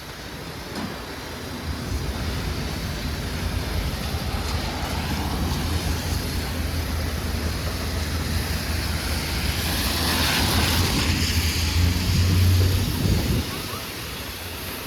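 City street traffic: a heavy vehicle's engine rumbling low and steady, building over several seconds and swelling near the end before dropping away suddenly about thirteen seconds in.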